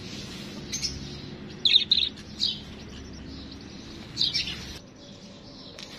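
Birds chirping: several short, high chirps, the loudest a quick pair about two seconds in and another burst a little after four seconds, over a low steady hum that drops away near the end.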